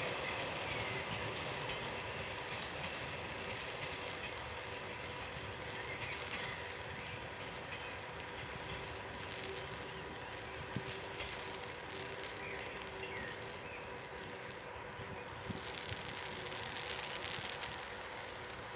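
Train hauled by an E464 electric locomotive running on the line and slowly fading as it draws away: a steady rumble with several held whining tones and a few light clicks.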